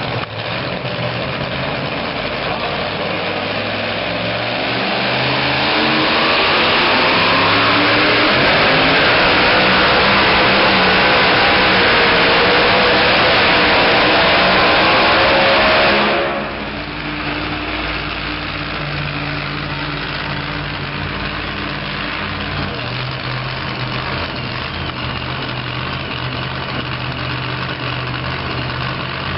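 Super modified two-wheel-drive pulling truck's engine revving up and running at full throttle, rising in pitch over the first few seconds. About sixteen seconds in it cuts back abruptly and settles to a steady idle.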